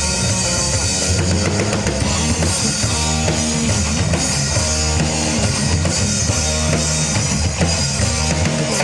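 Rock band playing live, an instrumental passage led by the drum kit over guitars and bass.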